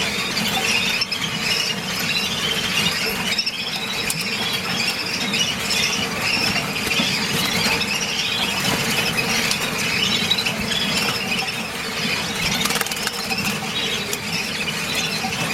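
Brown canaries singing: a continuous, rapid warbling song of chirps and trills, over a faint steady hum.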